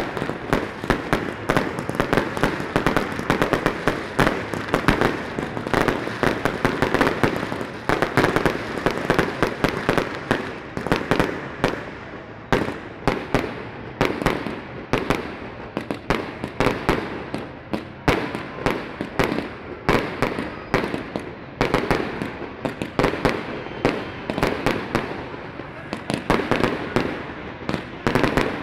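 Fireworks display: a continuous, dense string of bangs and crackling pops from aerial bursts, many per second.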